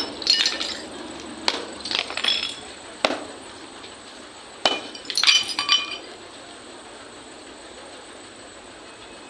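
Demolition work breaking up hard material: a series of sharp impacts with clinking, ringing debris, about eight in the first six seconds, then only a steady background hiss.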